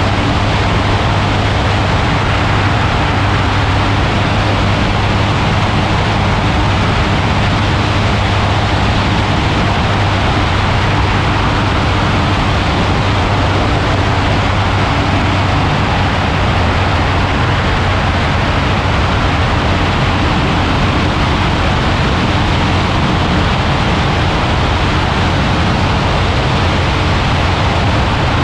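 Ultralight aircraft engine running at a steady pitch, with a heavy rush of wind over the microphone in flight.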